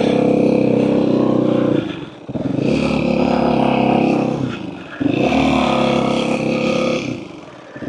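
Motorcycle engine running under load in three spells of about two seconds each, the sound dropping briefly between them.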